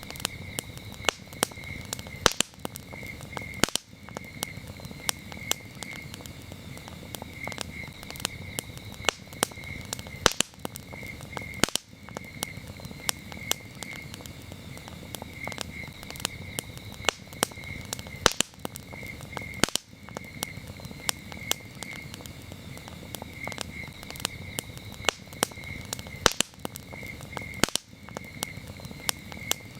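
Wood campfire crackling, with frequent irregular sharp pops over a low steady rustle of burning. Crickets chirp behind it in repeated pulsing trills.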